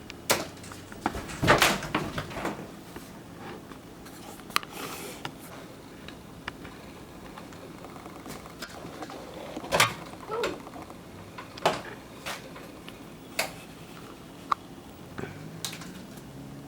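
Cats playing with a feather wand toy: irregular knocks, thumps and brief scrabbling rustles as they pounce and land, loudest in a cluster in the first few seconds, then single knocks every second or two.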